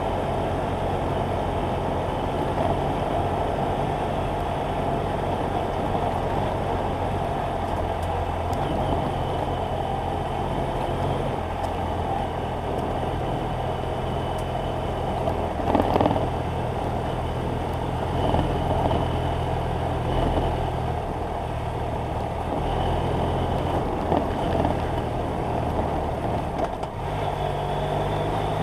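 BMW F800GS Adventure's parallel-twin engine running as the motorcycle is ridden, with wind noise over the microphone. The engine pitch steps down and up several times as throttle and gear change, and there is a brief louder rush of noise about halfway through.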